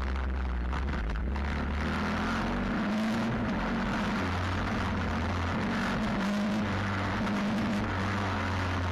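Stomp WPB 125 pit bike's 125cc single-cylinder four-stroke engine running while ridden, its note rising and falling a little with the throttle.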